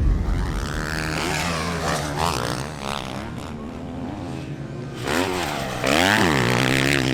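Motocross dirt bike engines revving hard on the track, their pitch rising and falling with each throttle blip and shift. A louder bike revs up close about five seconds in.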